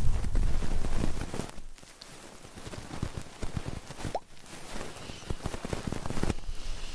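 Close-miked ASMR scratching and crackling on the microphone: a dense rubbing for the first second or so, then scattered small clicks and crackles.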